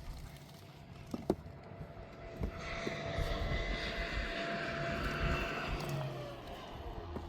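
An engine passing by: a drone that swells about two and a half seconds in and fades near the end, its pitch falling slightly as it goes.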